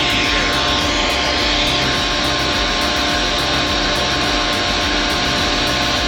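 Heavy construction machine's engine running steadily: a constant loud drone with a few fixed whining tones.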